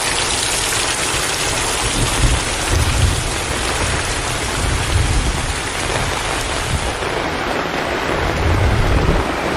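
Heavy rain falling steadily in a thunderstorm, with low thunder rumbles swelling a few times, strongest near the end.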